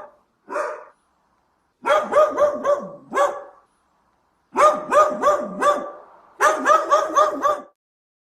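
A dog barking: two single barks, then three quick runs of barks at about four or five a second.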